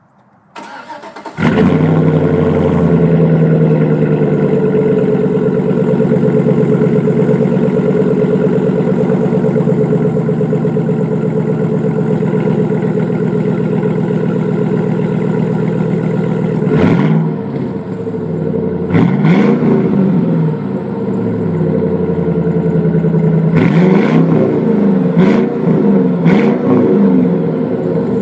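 A 4.8-litre V8 pickup engine breathing through a Flowmaster Super 10 dual exhaust with the catalytic converters removed: it cranks and catches about a second in, then idles steadily. In the last third it is revved in several short blips, each rising and falling back to idle.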